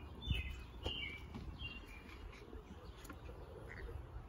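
Small birds chirping: short falling notes repeated every half second or so, over a low steady outdoor rumble with a soft knock or two.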